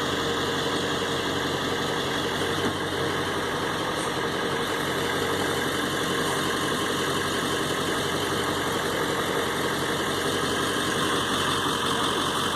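Pickup truck engine running steadily at idle, an even low hum with no change in speed.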